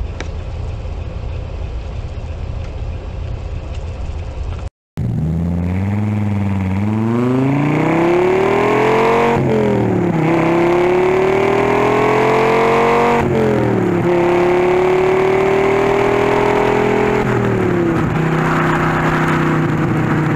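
Dodge Viper's V10 engine accelerating hard up through the gears. The note rises, drops at a shift, rises again, then drops at a second shift and holds nearly steady before falling to a lower steady cruise near the end. Before that, a steady low rumble for the first few seconds.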